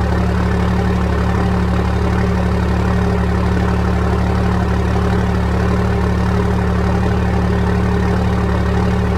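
Cummins 12-valve inline-six diesel idling steadily, cold, shortly after a cold start, heard through its dual exhaust stacks.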